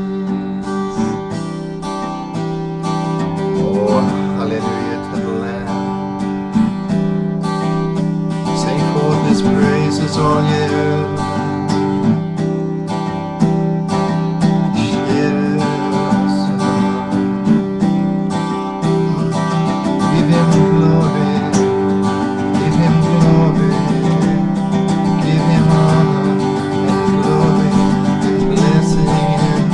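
Acoustic guitar strummed steadily, playing worship music.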